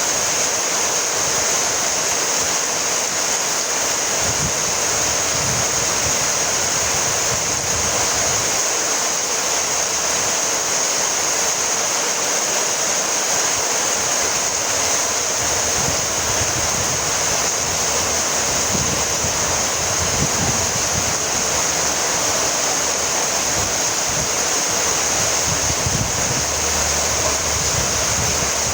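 Steady rainfall: an even, continuous hiss with no breaks or changes in level.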